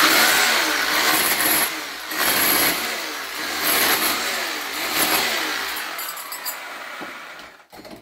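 Handheld electric power tool running under load for about seven and a half seconds, its motor pitch wavering up and down, starting abruptly and tailing off near the end.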